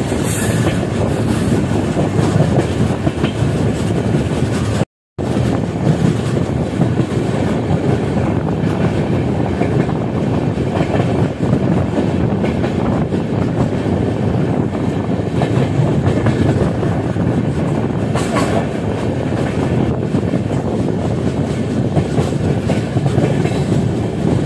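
Passenger train running at speed, heard from on board: a steady rumble of wheels on the rails with clickety-clack. The sound cuts out completely for a split second about five seconds in.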